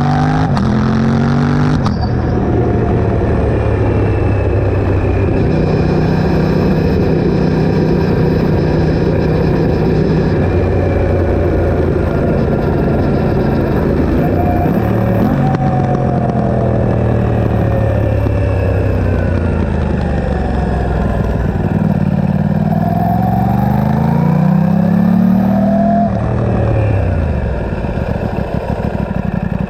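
Aprilia RS660's parallel-twin engine through a Mivv Delta Race exhaust with the catalytic converter removed and the dB killer fitted, running under load, its pitch rising and falling as it accelerates and slows. The pitch drops sharply about two seconds in and again a few seconds before the end, as at gear changes.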